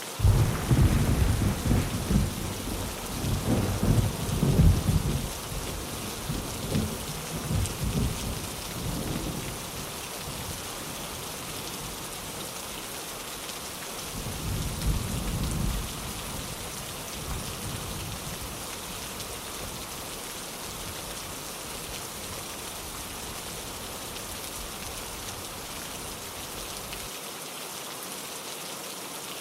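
Steady heavy rain with thunder: a loud rolling rumble breaks in right at the start and rolls on for about ten seconds, and a second, shorter roll comes about halfway through.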